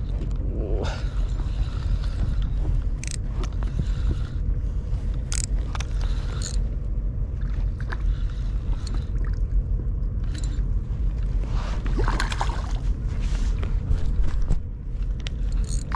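Steady low rumble of wind and water around a small inflatable boat, with a few sharp clicks and a scraping rustle near the end, as a hooked bass is played on rod and reel.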